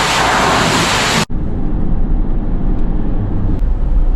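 Loud steady hiss of car-wash equipment at a self-service car wash cuts off abruptly a little over a second in. A low steady vehicle rumble follows.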